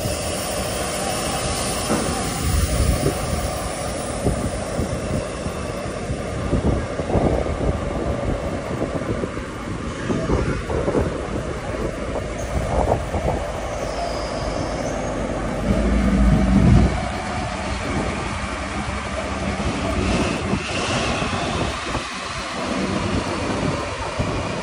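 Train running on the rails close by: a steady rumble with wheel clatter and a thin, high wheel squeal at times, loudest about sixteen seconds in.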